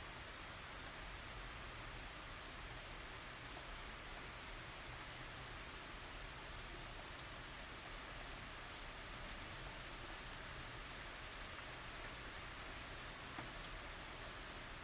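Steady tropical rain falling, an even hiss with many fine drop ticks and no thunder.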